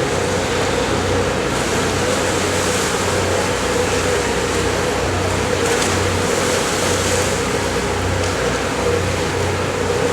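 Engines of a Fast Cat catamaran ferry running steadily as it manoeuvres to dock: a constant mid-pitched hum over a low throb that swells and fades.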